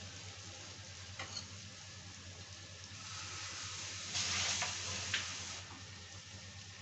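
Okra and onions sizzling as they fry in a kadhai, with a metal spatula stirring and scraping the pan. The sizzle swells louder for a couple of seconds past the middle, and there are a few light clinks.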